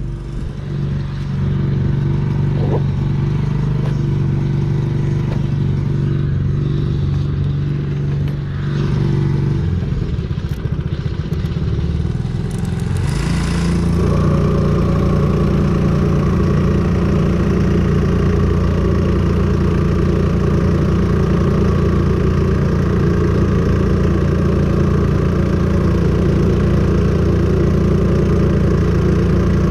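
New Hangkai 4 hp four-stroke outboard motor running during its break-in. It runs steadily, changes speed about thirteen seconds in, and then runs at a higher, slightly louder steady speed.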